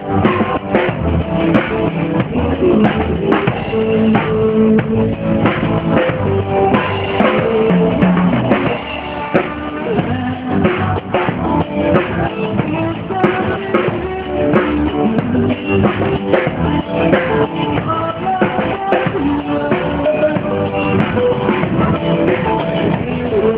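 Live rock band music with drum kit and electric guitar, played out through a car audio system's speakers.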